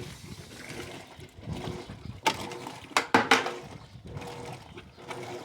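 Electrolux LED14 washing machine during its rinse soak: water sloshing in the tub as the wash moves, with a few sharp knocks near the middle.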